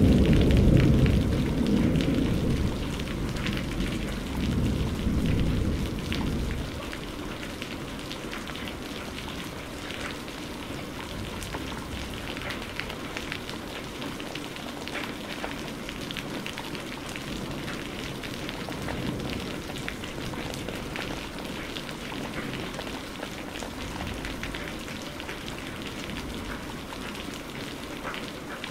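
Thunder rumbling and dying away over about the first six seconds, over steady heavy rain. After that, only the rain continues: an even hiss with dense pattering drops.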